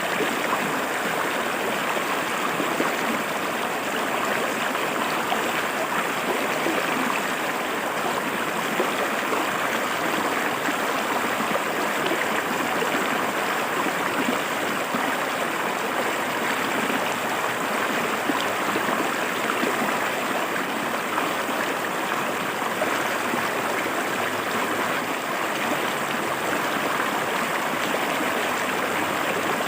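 A clear river flowing over rocks: steady, even rushing and splashing of running water.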